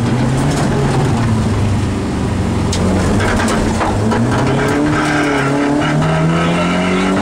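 Rally car engine heard from inside the cabin at full race pace. It eases off briefly about two seconds in, then revs up steadily in pitch through the second half, with a few sharp ticks around three seconds in.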